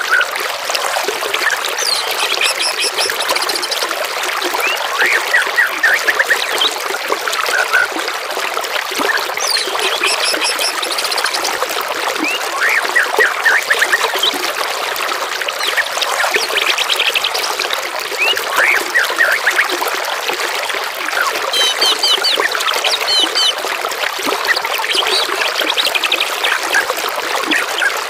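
Water trickling steadily while songbirds call over it every few seconds, with quick chirps, short trills and rising and falling whistles.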